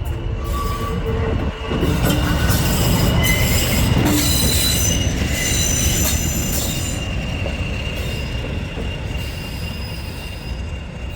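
Heritage diesel locomotive passing at speed, its engine running with a heavy low rumble and its wheels on the rails. It is loudest from about two to seven seconds in, with thin high squealing tones, then it fades as it moves away.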